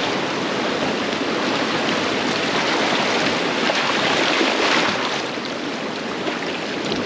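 Rushing, splashing river water around a raft moving down the river, a steady wash that swells a little about four to five seconds in and then eases slightly.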